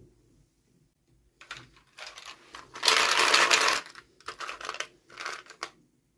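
Small plastic toy pieces and packaging being handled: a run of rustling, clicking bursts, the loudest and longest about three seconds in, with shorter ones after it.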